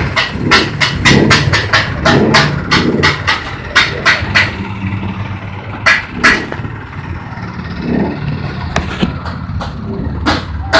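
Feed mixing machine running: a steady motor hum under rapid clattering knocks, about four a second for the first few seconds, then sparser and irregular.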